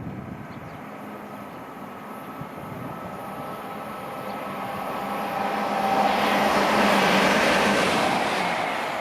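A train approaching and running past the platform, growing steadily louder to a peak about two-thirds of the way through, then easing. A rushing sound carries a few steady humming tones.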